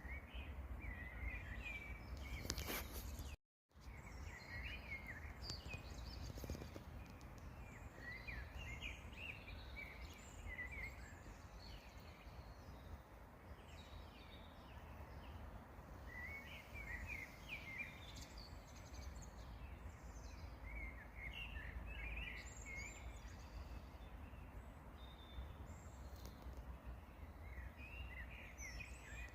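Songbirds singing short, chirpy phrases every few seconds over a steady low rumble. The sound drops out completely for a moment about three and a half seconds in.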